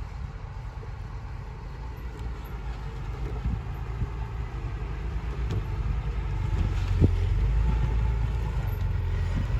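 Diesel engine of heavy earthmoving machinery rumbling steadily, growing louder about halfway through, with a few faint knocks.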